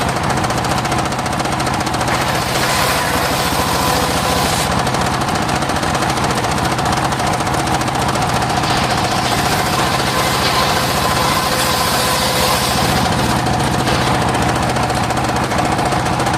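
Homemade engine-driven circular sawmill running steadily, the engine knocking fast under a steady whine. The higher hiss shifts a few times, about 5, 9 and 14 seconds in.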